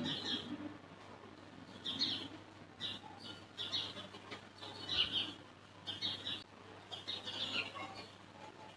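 Small birds chirping in short, repeated high chirps, a few each second, over a faint steady hum.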